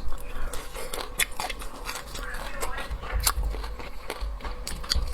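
A person biting and chewing crunchy food close to the microphone, with irregular crisp crunches.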